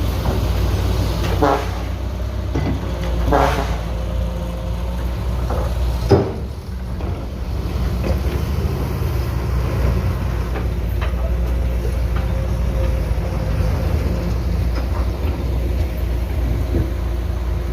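Heavy diesel construction machinery running steadily, with a few sudden clanks, the loudest about six seconds in.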